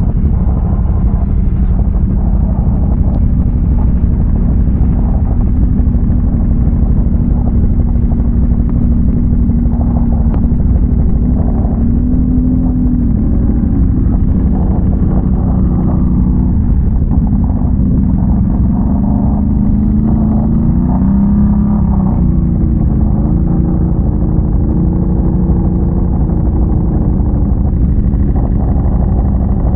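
ATV engine running under way, its revs rising and falling, over a constant heavy low rumble.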